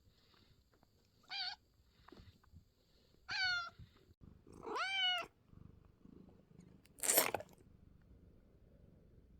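Domestic cat meowing three times, short calls a couple of seconds apart, the third longer with a rise and fall in pitch; a short breathy burst follows near the end.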